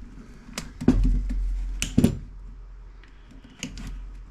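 Small wire snips clipping wiring and handling the metal chassis of an old tube radio: a few sharp clicks and snaps, the loudest about one and two seconds in, over a low rumble of handling.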